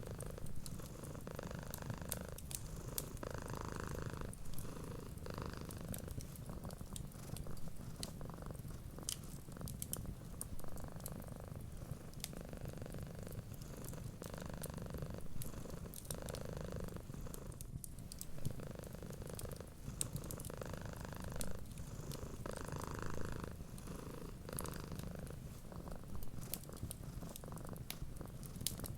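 Domestic cat purring steadily, swelling and fading with each breath, over the scattered soft crackle and pops of a wood fire in a fireplace.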